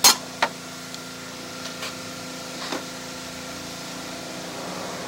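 A few sharp knocks and clicks of objects being handled, the loudest right at the start and a second about half a second later, then two fainter ones, over a steady electrical hum.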